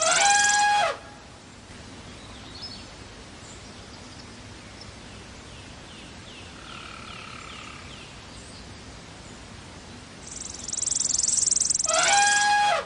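An elephant trumpeting, once at the start and again near the end, each call dropping in pitch as it ends. Between the calls there is a steady hiss with faint bird chirps.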